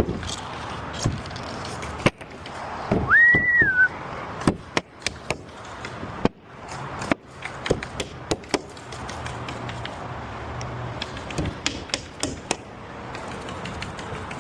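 Irregular knocks and clicks of objects being handled, with one short, high whistle-like note about three seconds in that rises quickly and then dips at its end.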